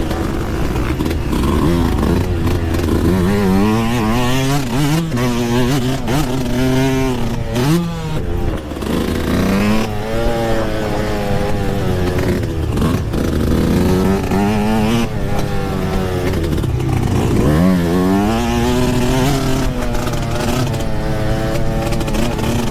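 Two-stroke Yamaha YZ125 dirt bike engine revving hard and dropping off again and again, its pitch climbing and falling several times as the bike is ridden around a motocross track.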